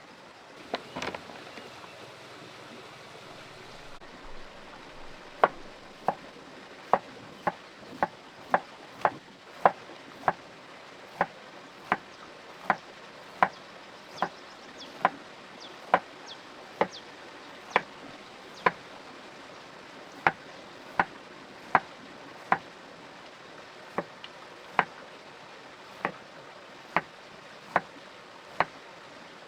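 A long run of sharp, evenly spaced knocks, about one and a half a second, starting about five seconds in, over a faint steady hiss.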